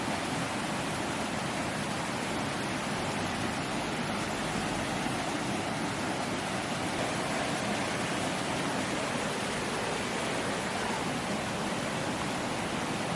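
Steady rushing of water, an even, unbroken noise with no separate drops or events.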